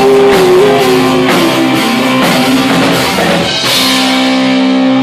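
Rock band playing live: electric guitar over a drum kit, with a cymbal crash and a held chord near the end.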